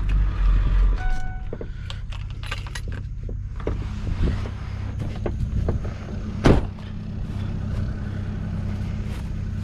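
Vehicle engine running steadily at a low pitch, with scattered clicks and rattles and one sharp knock about six and a half seconds in.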